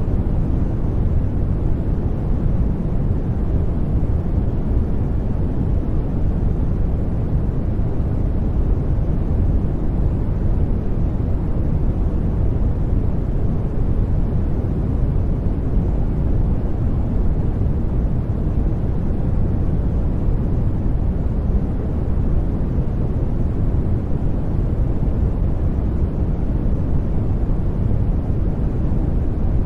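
Steady white noise, a constant deep-toned hiss and rumble with its weight in the low end and no change or events.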